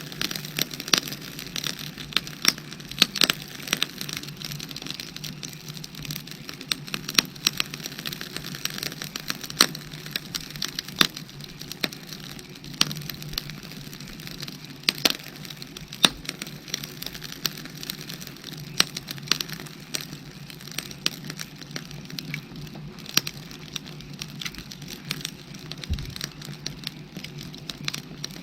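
Firewood burning with irregular crackles and sharp pops, several a second, over a steady low hiss.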